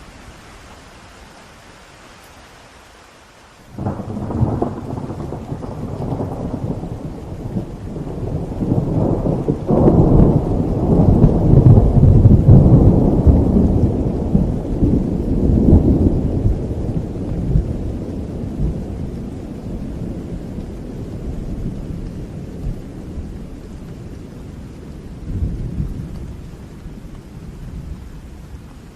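Steady rain with a long roll of thunder: it breaks in suddenly about four seconds in, swells to its loudest a few seconds later, then slowly rumbles away while the rain goes on.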